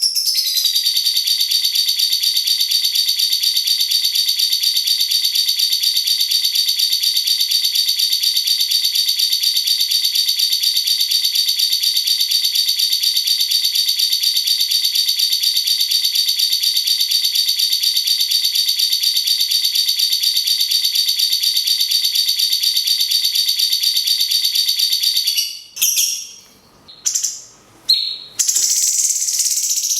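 Lovebird's long ngekek: a very fast, even, high rattling trill held without a break for about 25 seconds. It then breaks off into a few short chirps, and a different high, steady bird call begins near the end.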